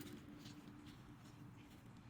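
Near silence: faint background with a few faint ticks.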